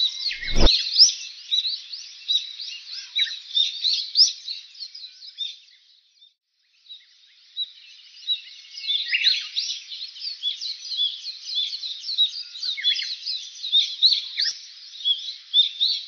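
A dense chorus of many small birds chirping and twittering, the calls short and high, breaking off for about a second around six seconds in. A short low thump sounds about half a second in.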